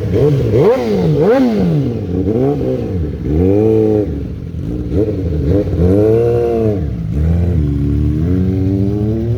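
Suzuki Hayabusa's inline-four engine being revved repeatedly: quick short throttle blips for the first few seconds, then slower, longer revs that rise and fall.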